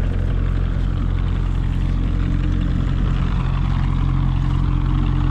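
Engine of a machine used to push fence posts into the ground, running steadily at an even, low pitch.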